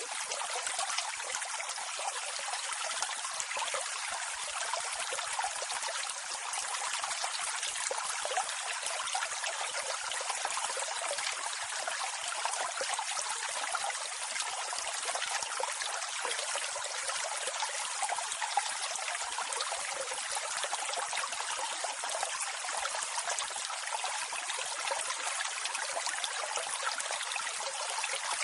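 Water of a waterfall and its stream flowing and splashing steadily: a light, even rush without deep rumble.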